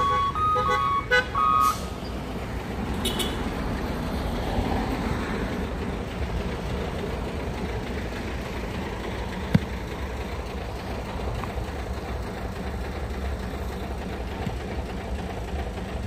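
A truck's reversing alarm beeping in two alternating tones, stopping about two seconds in, then the steady low rumble of truck engines running. A single sharp knock about halfway through.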